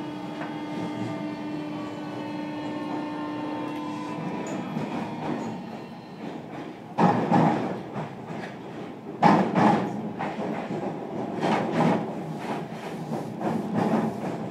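A 305 series electric train heard from inside a motor car. Its traction motors whine with a slightly rising pitch for about five seconds, then fade away. From about seven seconds in, the wheels clatter loudly and repeatedly over rail joints.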